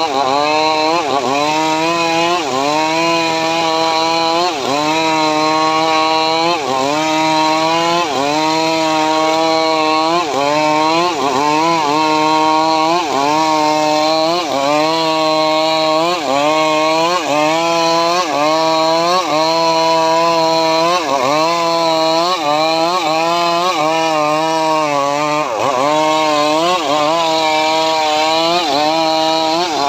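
Engine of a homemade srekel sawmill running under load while cutting sengon timber. Its pitch sags and recovers over and over, about once every second or so, as the saw bites into the wood.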